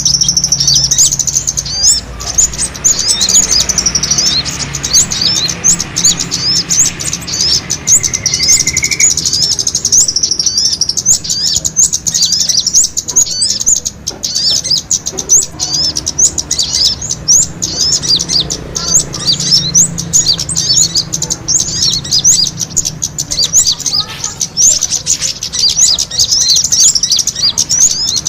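Many small birds chirping in fast, high-pitched, overlapping calls: a luring recording of small birds squabbling, played to draw wild birds in.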